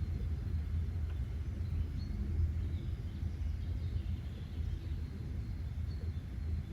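Outdoor ambience: a steady low rumble with faint, brief bird chirps scattered over it.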